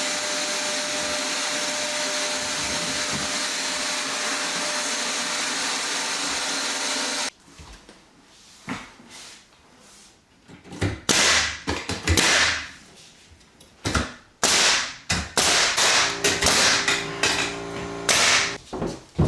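A small electric motor, like a power tool or shop vacuum, runs steadily and cuts off suddenly about seven seconds in. After a short pause come a run of loud, short rasping strokes and a few knocks.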